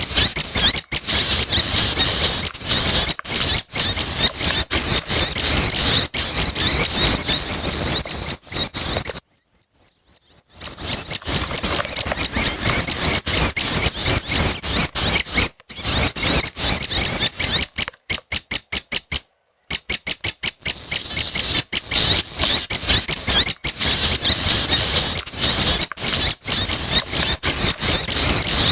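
Young prenjak kepala merah chicks calling, a dense, continuous run of high-pitched chirps. The calls break off briefly about nine seconds in and again just before twenty seconds, with a rapid string of separate chirps just before the second break.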